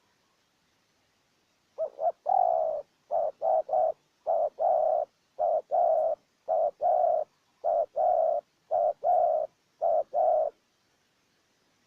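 Spotted dove cooing: a string of repeated low coo phrases, each a couple of short notes followed by a longer one, for about eight seconds before it stops.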